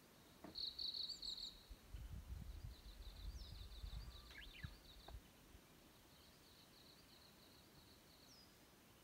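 A small bird singing faintly in high, rapid trills, three runs of them with a few short falling chirps, over a quiet outdoor background. A low rumble comes in from about two seconds in to about five seconds in.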